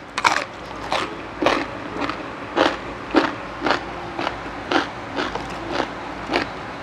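Crunching bites and chewing of crisp raw vegetables, an even run of sharp crunches about two a second.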